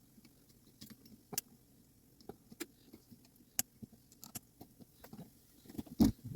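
Scattered small metallic clicks and taps of clock movement parts being handled and fitted by hand, with a louder knock near the end.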